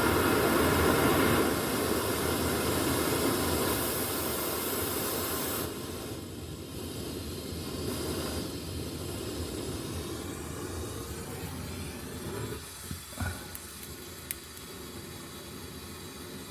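Handheld gas torch hissing while heating a part, turned low. The hiss drops off sharply about six seconds in and fades, with a few light knocks near the end.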